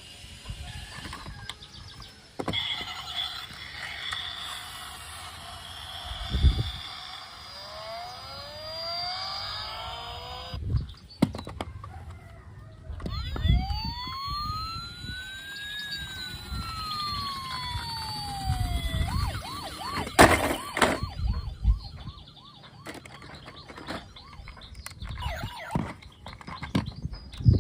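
Electronic siren of a toy emergency vehicle wailing in slow rising and falling sweeps, with several sharp knocks in between, the loudest about six seconds in and about twenty seconds in.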